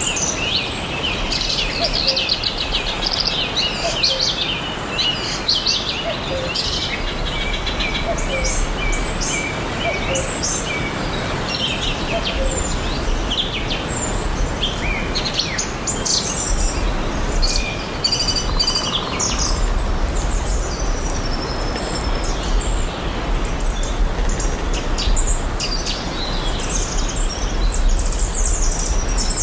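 Several birds chirping and singing in quick, overlapping calls, over a steady hiss of outdoor background noise with a low rumble underneath.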